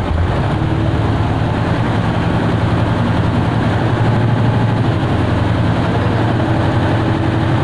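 A heavy engine running steadily at a constant speed: a low drone with a faint steady tone above it.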